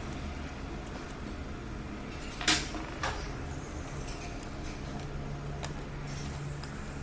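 A few light clicks and taps of small hard objects being handled, the loudest two about two and a half and three seconds in, over a steady low hum.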